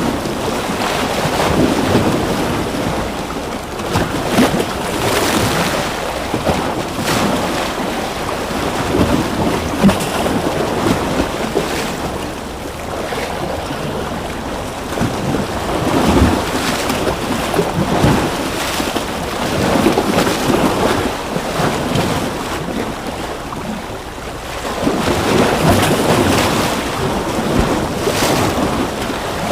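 Ocean waves washing onto a shore, a continuous rushing of surf that swells and eases every few seconds, with crackling spray as the waves break.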